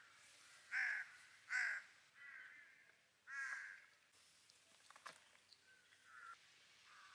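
A bird calling again and again in short calls, the loudest in the first half, with fainter calls near the end. A single sharp click about five seconds in.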